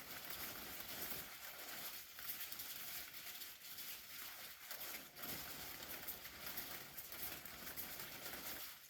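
Umbrella making steady crinkly rustling and pattering sounds, dense and unbroken, dropping away right at the end.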